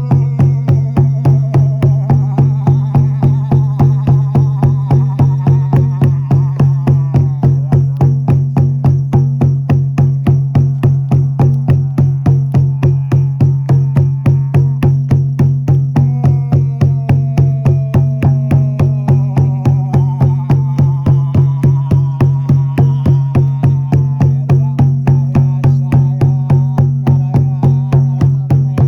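A shamanic frame drum (buben) beaten in a steady, even pulse of about four strokes a second, its low drum tone ringing on continuously. A wordless gliding voice sings or hums over it at times.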